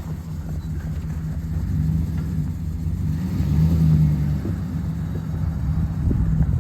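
2010 Chevrolet Silverado LTZ pickup's V8 engine running with a steady low hum, swelling in level about two seconds in and again at about four seconds, when it is loudest.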